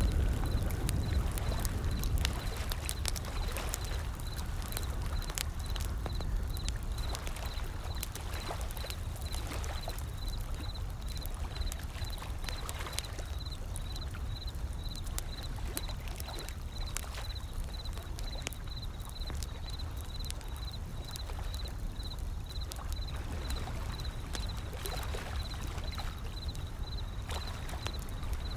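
Wood fire crackling, with frequent small sharp pops, over the low steady wash of gentle ocean waves that swells slightly in places.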